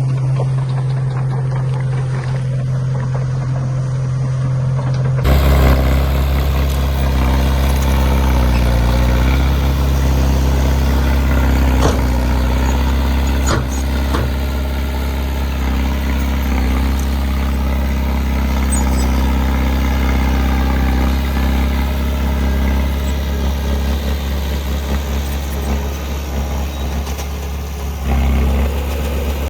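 Diesel engine of a heavy earthmoving machine running steadily with a low drone. The sound changes abruptly about five seconds in and again near the end, with a few short knocks in between.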